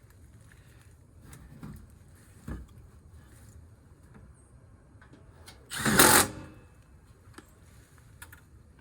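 A short burst of about half a second from a handheld power tool, the loudest sound here, among scattered knocks and clicks of hands working on metal, with one sharp thump a couple of seconds earlier.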